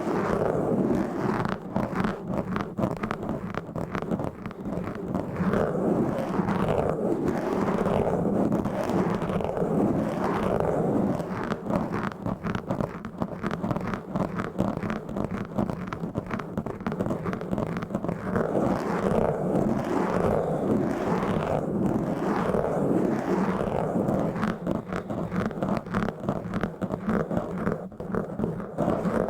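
Fingers scratching and rubbing roughly and fast on a bare microphone with no windscreen, a continuous close scratchy rasp that swells with each repeated stroke.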